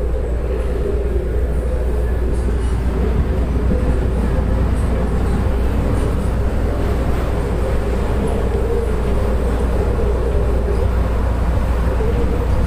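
Light-rail train car running along the track, heard from inside the car: a steady low rumble with a constant hum over it.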